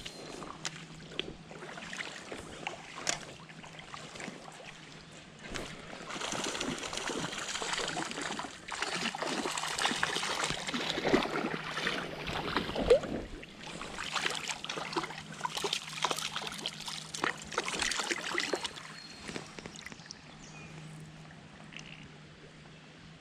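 Creek water trickling with irregular splashing and small knocks, which grow busier and louder for about thirteen seconds in the middle, then settle again.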